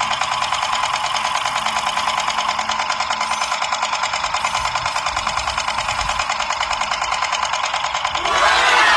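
Small electric motor of a homemade mini machine running steadily with a fast, even chatter. Near the end a louder sweeping sound rises and falls over it.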